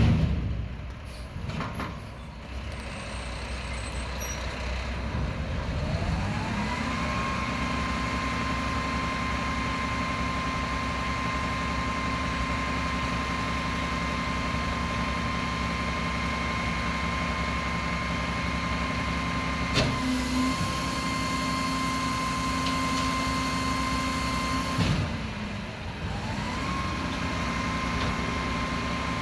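Garbage truck diesel engine on a Mack MRU front loader revving up to drive the Heil body's hydraulics, then holding a steady high rev with a whining hydraulic pump tone. Near the end the revs drop briefly and climb again. A loud bang comes right at the start.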